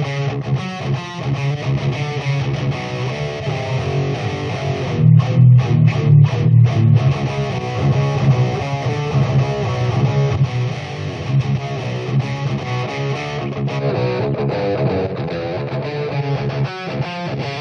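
Electric guitar played through the Overloud TH-U amp simulator, with continuous picked and strummed playing. About five seconds in comes a louder passage of short, clipped chords with brief stops between them.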